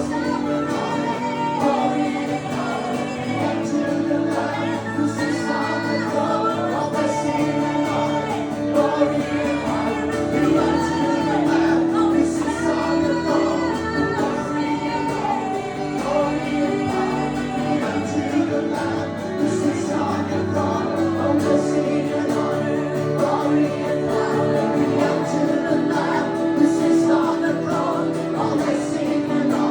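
Live acoustic worship music: voices singing a melody together over a steady, sustained instrumental accompaniment.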